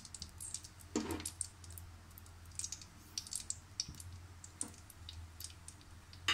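Semolina crackling faintly and irregularly in hot melted ghee in a steel karahi, over a low steady hum, with a soft knock about a second in.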